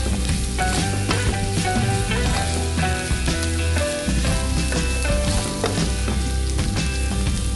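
Boiled pork belly and minced garlic sizzling in a hot frying pan while a spatula stirs them, with frequent short scrapes and taps against the pan.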